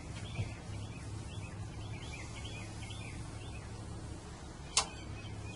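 Small birds chirping repeatedly in the background over a steady low hum, with one sharp click near the end.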